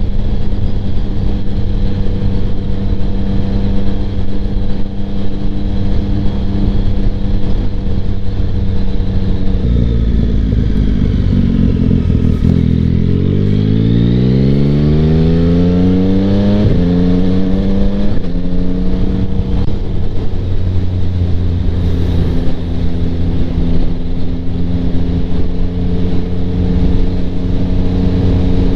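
2025 Yamaha MT-09's three-cylinder engine through a Kelpi Flanker exhaust with the baffle in. It runs steadily, then about ten seconds in the throttle opens and it revs up with a rising pitch. A gear change comes at about sixteen seconds, a second shorter rise follows, and it settles back to a steady drone.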